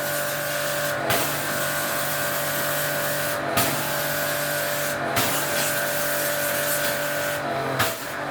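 A machine running steadily with a strong even hiss and a constant hum, broken by four short knocks.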